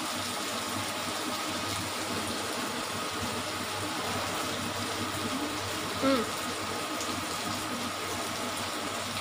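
Cubed potatoes frying in oil in a wok, a steady even sizzle.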